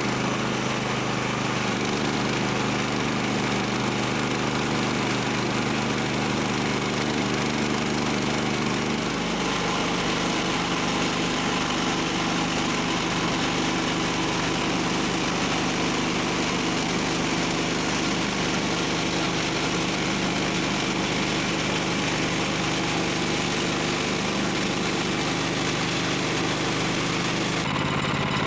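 Small gasoline engine running steadily at a constant speed, with an even hum and no load changes. The sound begins abruptly and shifts slightly near the end.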